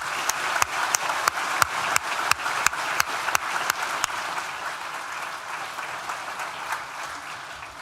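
Audience in a large hall applauding, with loud individual claps standing out at first and the applause gradually dying away near the end.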